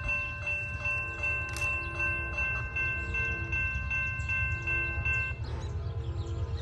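Railroad grade-crossing bell ringing, about two to three strikes a second, stopping a little over five seconds in, over a steady low rumble.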